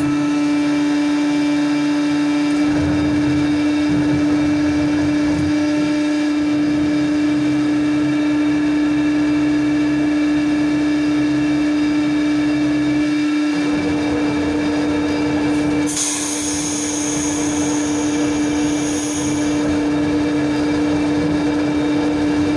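Sawmill debarking machinery running with a steady, high machine whine. About sixteen seconds in, a higher hissing sound joins it.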